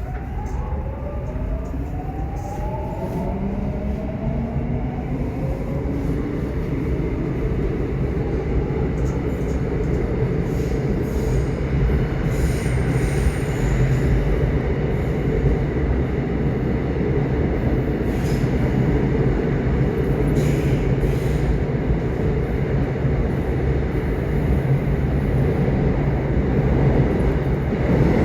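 Subway train pulling away: its motors give a rising whine in a few steps over the first several seconds, then the train runs on with a steady rumble of wheels on rails that grows slightly louder.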